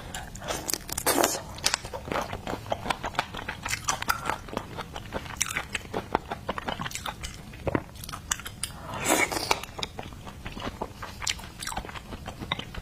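Close-miked eating: wet chewing, biting and mouth smacks on seafood, with many irregular sharp clicks and occasional crunches.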